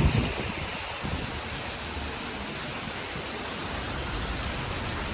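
Steady rushing outdoor noise, with a brief gust of wind buffeting the microphone at the start.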